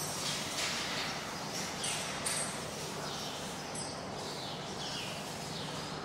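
Small birds chirping: short, falling chirps repeating every half second or so, over a steady low hum.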